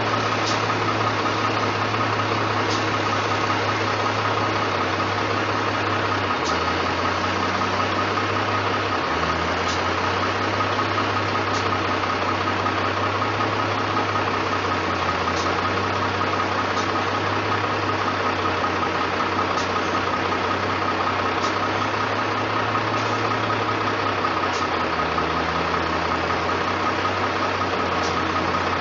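Truck engine running steadily. Its low note shifts in pitch a few times as the revs change, with a few faint ticks.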